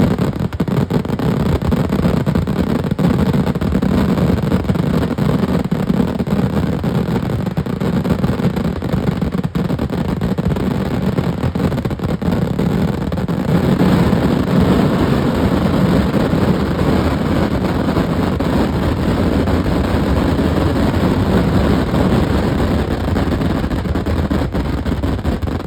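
A dense, continuous barrage of fireworks going off, the bangs running together into a steady rumble with crackle; it gets louder about halfway through.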